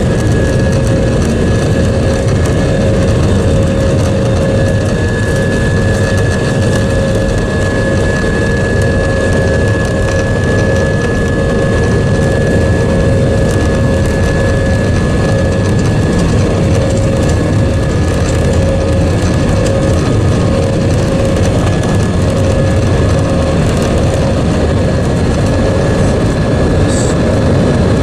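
Steady noise of an Airbus A320-232's IAE V2500 turbofan engines heard inside the cabin over the wing: a dense, even rush with two steady whining tones above it.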